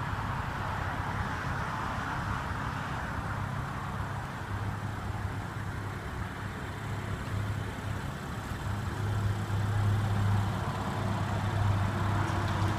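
A vehicle engine idling steadily: a low, even hum under a background hiss, a little louder in the last few seconds.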